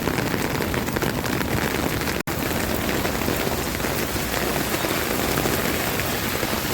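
Steady rain falling on hard surfaces, a dense even hiss of many small drop ticks. The sound cuts out for an instant about two seconds in.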